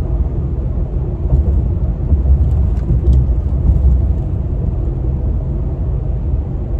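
Steady low rumble of a truck's engine and tyres heard from inside the cab while driving, with a few faint ticks about halfway through.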